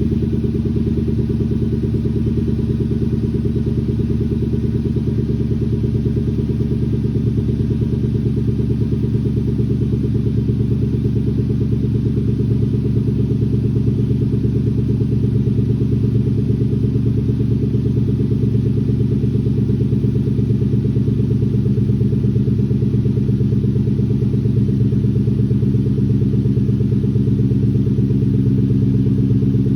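Lexus LS430's 4.3-litre V8 idling steadily on a cold start through a muffler-delete exhaust, a deep, even note. The exhaust has new 2.25-inch pipe from the resonators back and 4-inch tips.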